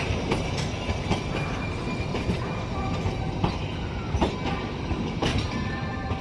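Kalka–Shimla narrow-gauge toy train running on the rails: a steady low rumble with irregular clicks and knocks from the wheels and carriages.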